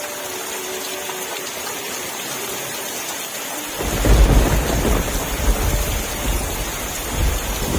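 Steady rain hissing, joined about halfway through by a deep rumble of thunder that comes in suddenly and rolls on for several seconds.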